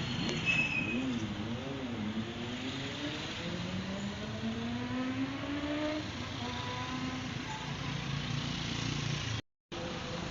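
A high-performance vehicle engine revving. Its pitch wavers up and down in the first couple of seconds, then climbs steadily twice as it accelerates. The sound cuts out for a moment near the end.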